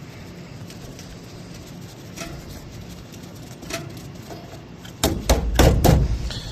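A few light clicks, then a loud cluster of knocks and rustling from about five seconds in, over a steady low hum.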